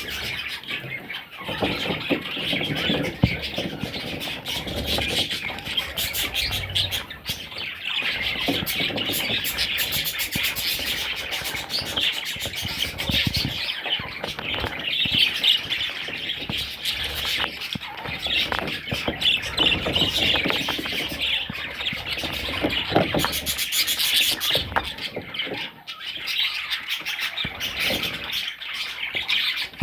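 Budgerigar chicks chirping in a dense, continuous high-pitched chatter, with short scratchy clicks mixed in.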